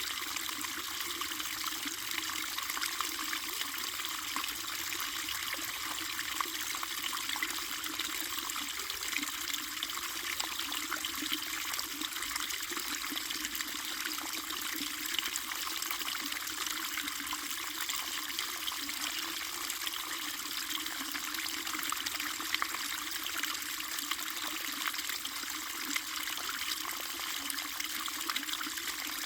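Water flowing and trickling steadily, an even, unbroken rush of running water.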